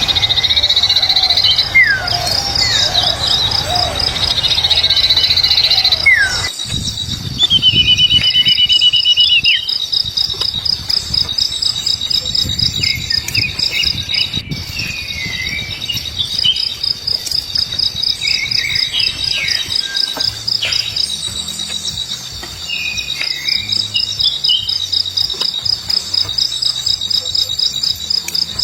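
A cricket-like insect trilling steadily with a fast, even pulse, with birds calling over it: short falling whistles, a buzzy trill about eight seconds in, and scattered chirps. A low rumbling noise underlies the first six seconds and then stops.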